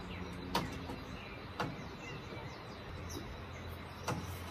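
Birds chirping faintly and intermittently, with three sharp clicks or knocks, about half a second in, at one and a half seconds and near the end, over a low steady hum.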